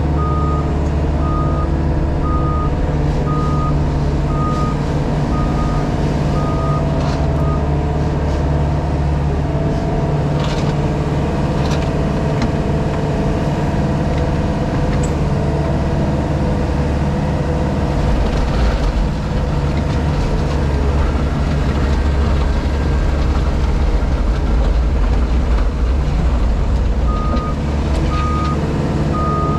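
JCB Pothole Pro's diesel engine running steadily, heard from the cab. A reversing alarm beeps about one and a half times a second for the first several seconds, stops, and starts again near the end. A few brief knocks sound in between.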